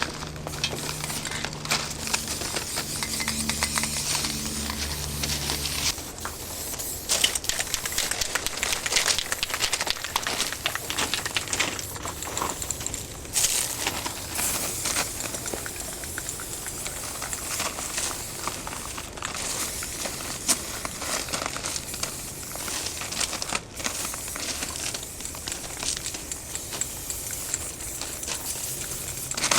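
Aerosol spray paint cans hissing in repeated spurts of varying length, with scattered small clicks.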